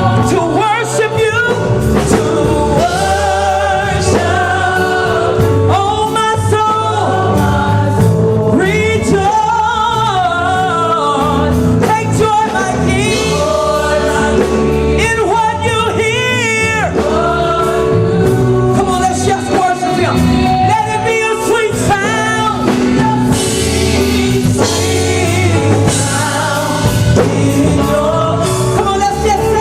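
Gospel praise song: a lead singer with vibrato and backing voices, with a sustained keyboard and bass accompaniment.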